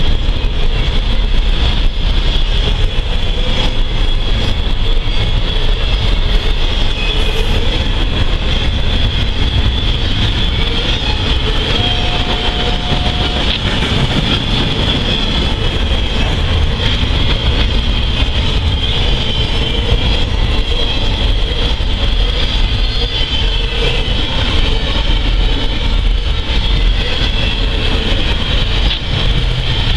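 Norfolk Southern intermodal freight train rolling past: a steady, loud rumble of steel wheels on rail with a constant high ringing from the wheels and rails.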